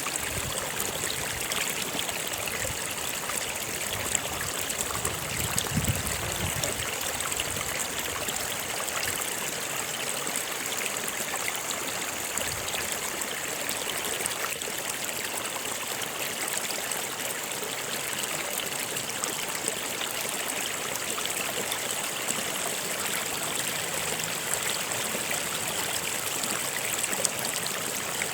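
Stream of water running and trickling steadily over rocks, with small splashes.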